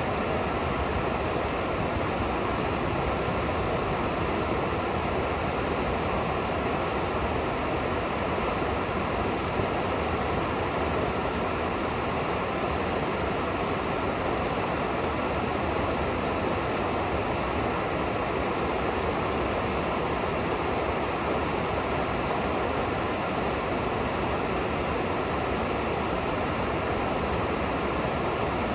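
River water rushing: a steady, even rush of flowing water that does not change.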